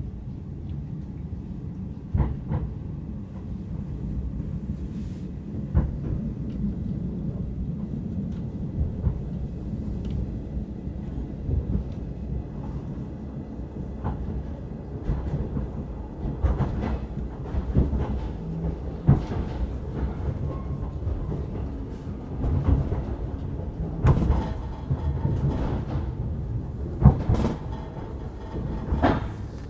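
A moving passenger train running on the rails: a steady low rumble with irregular sharp knocks and clatter from the wheels and carriage, which come more often in the second half.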